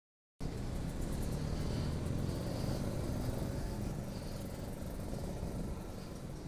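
A vehicle engine running steadily with road noise. It begins abruptly about half a second in.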